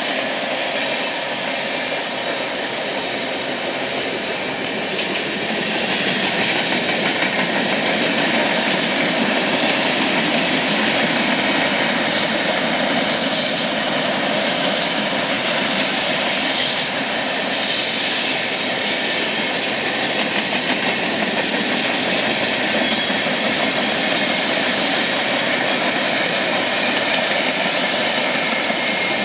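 Freight train cars rolling past on steel rails: a steady rumbling rush of wheels on track, a little louder from about six seconds in.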